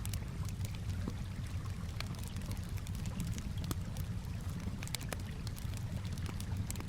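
Campfire crackling, with frequent irregular sharp pops and snaps, over a steady low rush of gently moving water.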